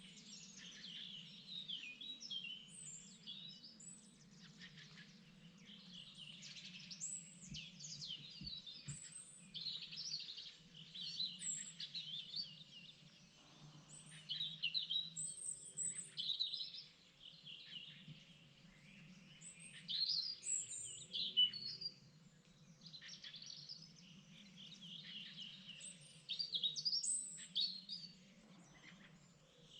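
Several songbirds singing and chirping at once in spring, an unbroken chorus of short, high trills and calls overlapping one another, over a steady low background hum.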